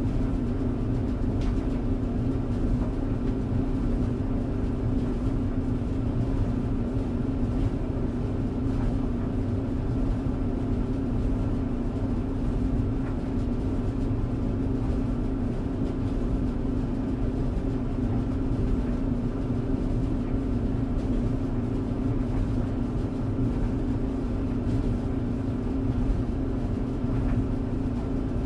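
Clothes tumble dryer running: a steady hum and rumble from the motor and turning drum, with a couple of faint ticks.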